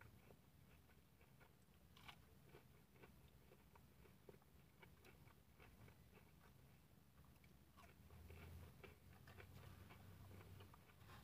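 Faint, irregular crunching and chewing of a pretzel-crusted chicken ring in the mouth, the small crispy pretzel pieces crackling between the teeth. A faint low hum joins about eight seconds in.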